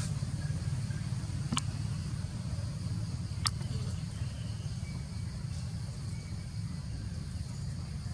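Outdoor ambience: a steady low rumble under a high insect drone, with two sharp clicks, about one and a half seconds in and again about two seconds later.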